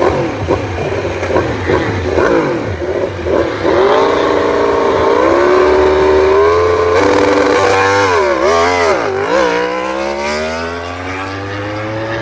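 Racing motorcycles passing at speed, loud, several engines going by in quick succession with their pitch dropping as each passes. Later an engine's pitch dips twice, then climbs steadily as it accelerates away.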